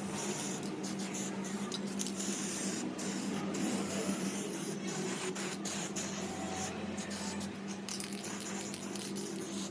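A steady spraying hiss of pressurised air or liquid, with a constant low hum underneath.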